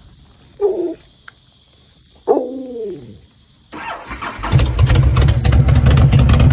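Honda VTX 1300 V-twin cold start: about three and a half seconds in the starter cranks it, the engine catches within a second and settles into a steady, loud run. Before that, two brief sounds, the second falling in pitch.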